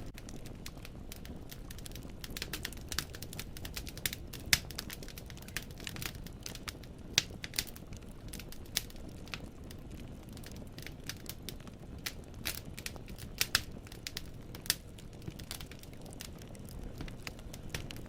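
Wood fire in a fireplace crackling: irregular sharp pops and snaps of burning logs over a low steady rumble of the flames, with louder pops about four and a half and seven seconds in.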